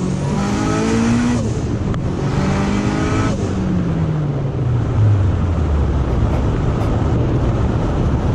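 Car engine accelerating hard: its pitch climbs twice with a short break between, like a gear change, then falls away as it decelerates and settles to a steady low running note.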